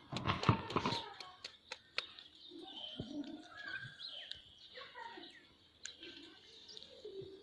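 Indian ringneck parrot eating, with a dense burst of rustling and clicks in the first second, then scattered sharp clicks and soft short chirping calls.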